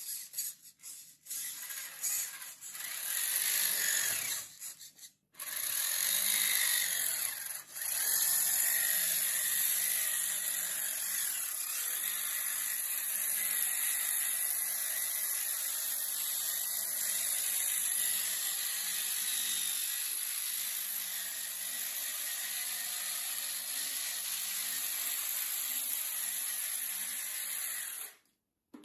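A small electric motor whirring: several short runs in the first few seconds, then running steadily for over twenty seconds before it stops abruptly.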